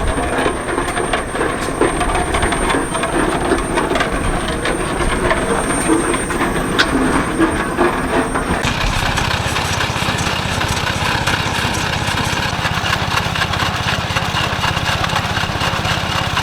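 Antique engines running with a steady, rhythmic mechanical chugging; the sound changes abruptly about halfway through as a different engine takes over.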